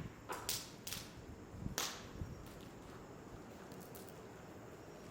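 Wood fire in a fire pit crackling, with a few sharp pops in the first two seconds, then a faint steady hiss.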